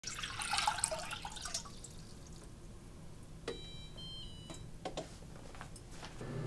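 Kitchen sounds: water running briefly at the start, then a click and a short stepped sequence of electronic beeps from a kitchen appliance, followed by a few light clicks over a low steady hum.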